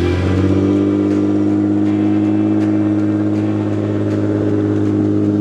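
Off-road 4x4's engine running under load at steady revs, its pitch climbing slightly at first and then holding even.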